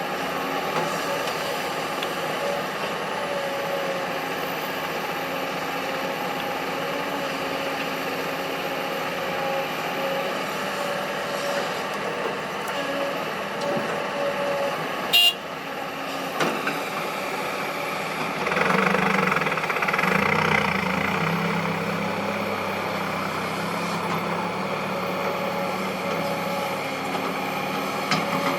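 Heavy earthmoving machinery running steadily, diesel engines of an excavator and dump truck at work. A single sharp click comes about halfway through, and the engine sound swells louder for a few seconds soon after.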